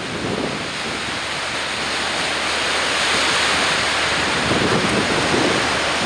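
Storm wind and surf: a loud, steady rushing that swells over the first few seconds, with wind buffeting the microphone.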